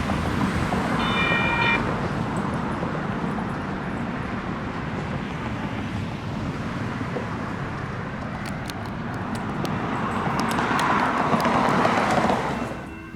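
Light rail train running along the tracks amid traffic noise, with a short horn toot about a second in. The rumble swells near the end and cuts off suddenly.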